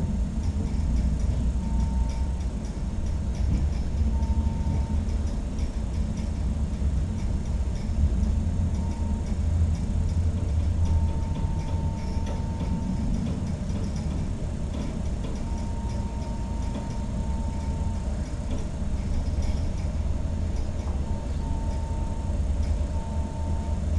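Steady low rumble or hum, like a machine or room noise, with a faint steady high tone that switches on and off for a second or so at a time.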